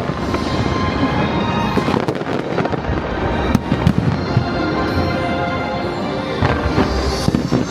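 Aerial fireworks bursting in a dense, continuous run of bangs and crackles, with the sharpest bangs about three and a half to four seconds in.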